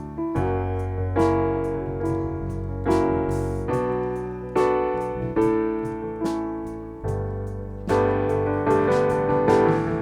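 Piano playing a slow accompaniment without singing: chords struck every half second to a second, each ringing and fading before the next.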